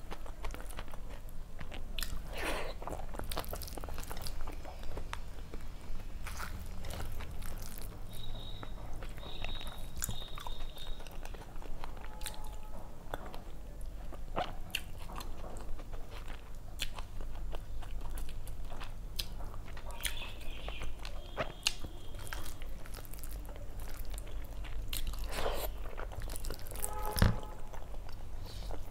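Close-miked chewing and mouth sounds of a person eating rice and fish by hand: wet smacks and small clicks throughout, over a steady low hum.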